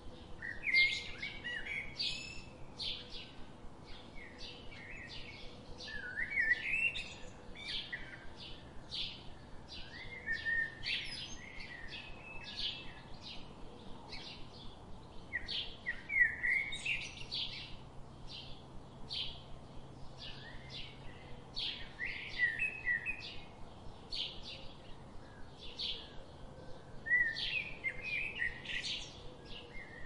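Birds chirping and singing: a busy run of short high chirps, several a second, broken every few seconds by a louder warbled phrase that sweeps upward.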